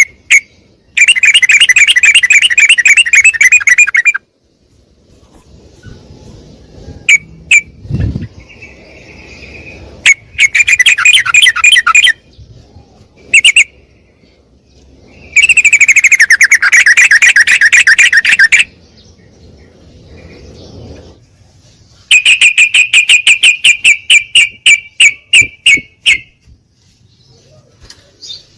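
Yellow-vented bulbul (trucukan) calls: loud bouts of fast, chattering trills a few seconds long, with short single notes between them. The last bout is a run of separate notes, about five a second, that slows toward its end; there is also a single low thump about eight seconds in.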